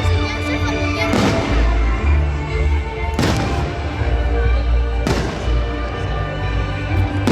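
Fireworks shells bursting about every two seconds, each bang trailing off in echo, over show music with a heavy bass line.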